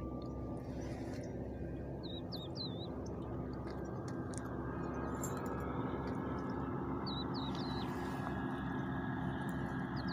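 A small bird calling in short groups of quick chirps, three times a few seconds apart, over a steady low engine hum.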